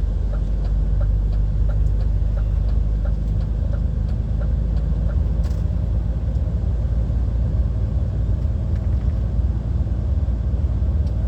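Lorry's diesel engine and road noise heard inside the cab while driving: a steady low drone with faint regular ticks.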